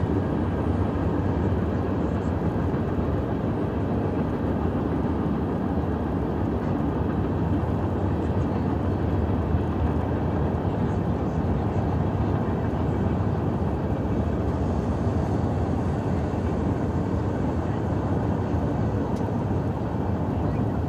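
Steady low rumble of a long freight train rolling past across the river.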